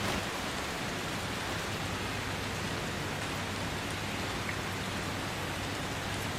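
Steady rainfall, an even hiss of falling rain.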